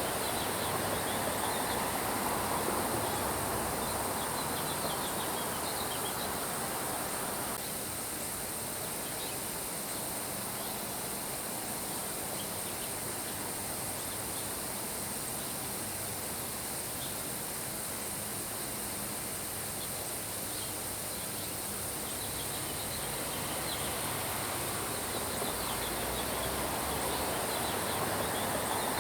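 Steady rain hiss with short high bird chirps scattered through it, more of them near the start and the end. The fuller part of the rain sound thins abruptly about seven seconds in and swells back near the end.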